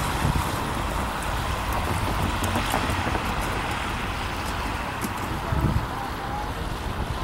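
Grand Canyon Railway passenger train running by: a steady rumble of rolling stock on the rails, slowly fading slightly.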